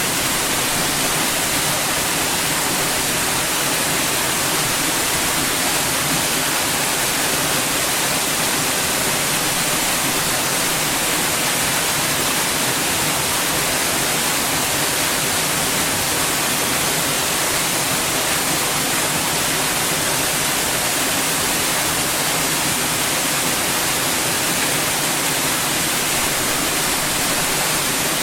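Continuous white noise: an even, unchanging hiss, brightest in the high range.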